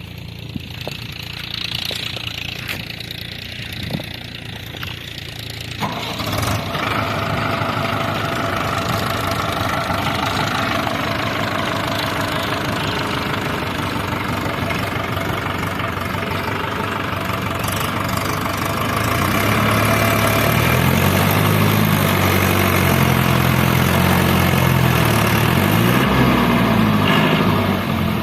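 Heavy diesel engine running, growing louder about six seconds in. In the last third it revs up and down several times.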